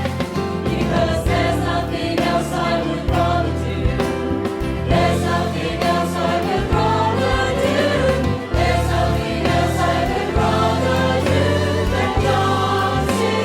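Orchestral music with a choir of voices singing together.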